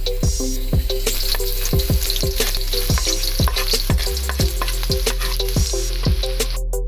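Sliced garlic frying in hot oil in a wok, a steady sizzle, over background music with a regular beat. The sound drops out for a moment near the end.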